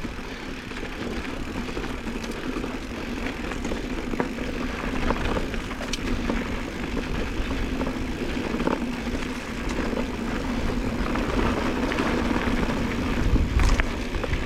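Mountain bike rolling along a rough bush trail: steady tyre rumble and wind buffeting the helmet-mounted camera microphone, with a few light knocks and rattles from the bike.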